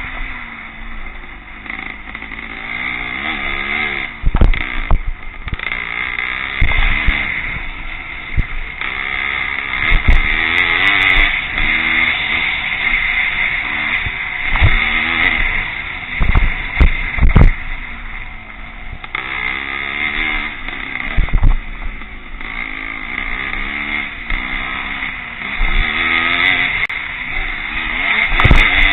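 Pre-65 vintage motocross motorcycles racing, their engines revving up and falling away over and over, with several short low thumps.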